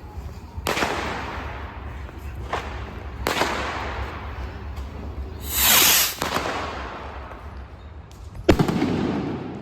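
Salute rockets (Cohete Trueno No.17) and other fireworks going off: a couple of echoing bangs, then a short loud hiss of a rocket launching about six seconds in, followed by a sharp, loud report a couple of seconds later.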